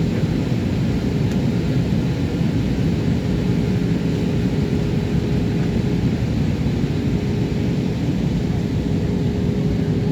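Steady rumble of jet airliner cabin noise in flight (a Jetstar Japan Airbus A320), engines and airflow, with a faint steady hum joining a few seconds in.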